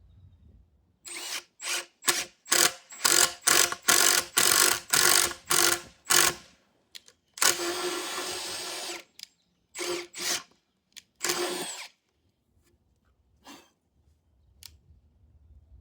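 Electric drill boring dowel holes in wood, its trigger pulsed in about ten short bursts, then held for about two seconds, then pulsed three more times.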